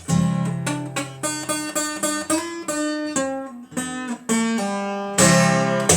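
Acoustic guitar picking single notes and chords, with a louder, fuller strum about five seconds in. This is an instrumental passage between sung lines of a song.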